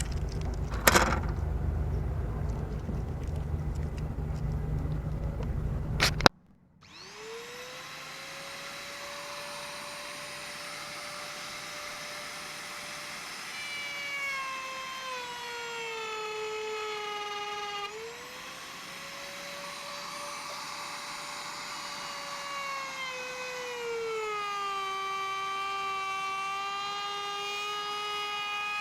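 A loud low rumble with a sharp click near the start cuts off abruptly. Then an electric hand router spins up to a steady high whine. Its pitch sags twice as the bit bites into the porthole edge under load, and recovers in between.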